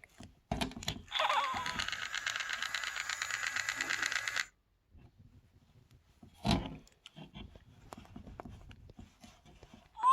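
Electronic Senario Scoozie toy ferret playing a rapid, buzzy chattering trill through its small speaker for about three and a half seconds, after a handling thump. Another thump comes a couple of seconds later, and a burst of squeaky rising chirps begins at the very end.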